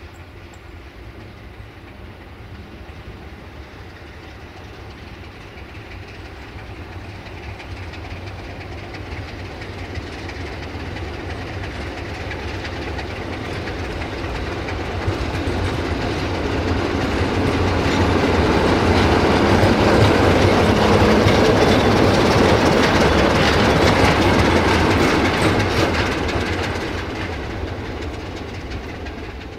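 Diesel-electric locomotive hauling passenger coaches approaches with a steady low engine hum, growing steadily louder and loudest in the second half as it passes close. The coaches then roll by on the rails and the sound fades near the end.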